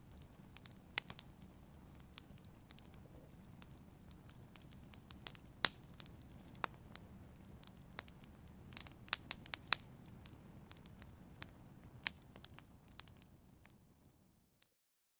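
Wood fire crackling in a fireplace: irregular sharp pops and snaps over a low, steady hiss, fading out near the end.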